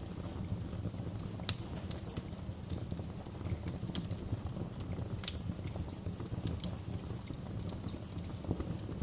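Wood fire in a fireplace crackling: irregular sharp pops and snaps, a few of them louder, over a steady low rumble.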